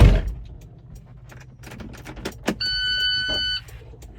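A loud low thump at the start, then scattered clicks, then an electronic warning beep held for about a second, like a vehicle's dash chime.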